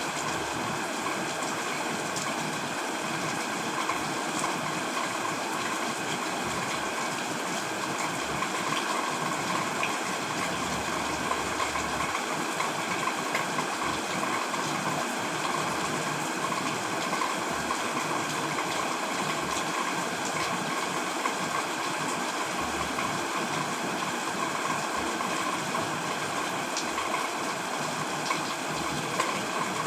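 Heavy rain falling steadily: an even, dense hiss with a few faint drop ticks.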